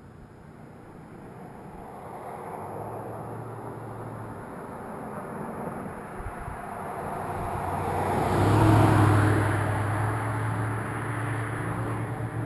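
Yamaha FZ-09 motorcycle's inline-three engine through a full Arrow exhaust, approaching and riding past, growing louder to a peak about nine seconds in and then fading.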